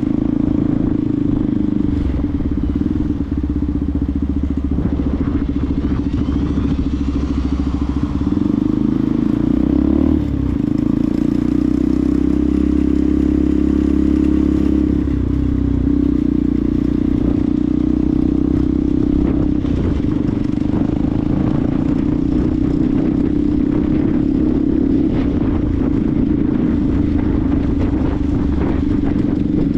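Benelli TNT 125's single-cylinder four-stroke engine running steadily, its note changing about ten seconds in and again around fifteen seconds.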